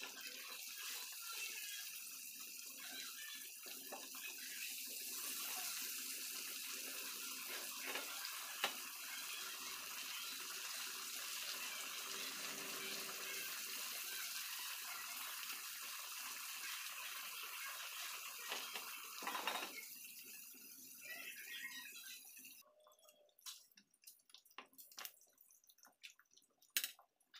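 Pork chops frying in bubbling oil and marinade in a pan, a steady sizzle with a few sharp clicks of metal tongs against the pan. Near the end the sizzle drops away abruptly, leaving only scattered light clicks.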